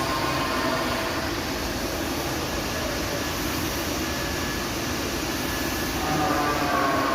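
Orbital sanding machine running steadily against a car body panel, sanding down epoxy primer.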